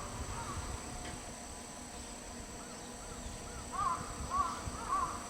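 Crow cawing in a run of short calls, about two a second, starting about halfway through, over a faint low rumble.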